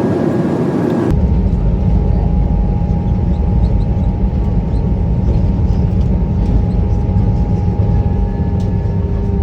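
Steady, low rumble of airliner cabin noise with the engines running, with a few faint steady tones above it; it begins after a cut about a second in.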